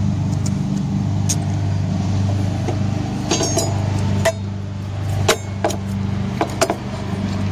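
Small metal clinks and clicks of a bolt, lock washer and flat washer being handled and fitted into a step-rail bracket, one of them ringing briefly. A steady low hum runs underneath.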